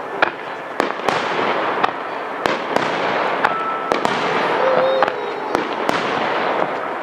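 Aerial fireworks shells bursting in quick succession: a dozen or so sharp bangs at uneven intervals over a continuous hiss of burning and echoing reports.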